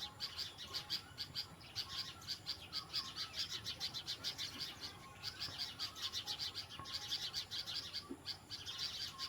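Small birds giving rapid, repeated high alarm calls, about seven sharp notes a second in long runs that break off briefly twice: mobbing calls at the sight of a cat.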